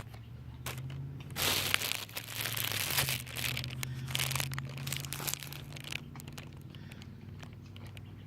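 Crinkling, rustling noise close to the microphone for several seconds, loudest near the start, over a steady low hum.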